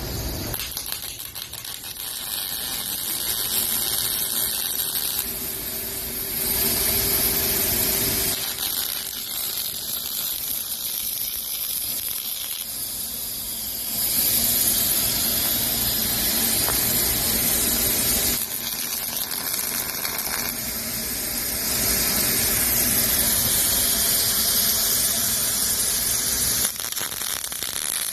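Robotic arc welding: a steady hiss from the welding arc that changes abruptly in loudness and tone every few seconds.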